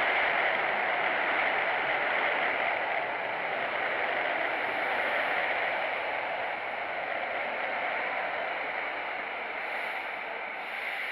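Lastochka (Siemens Desiro RUS) electric train pulling in alongside the platform: a steady rushing noise that slowly fades as the train slows.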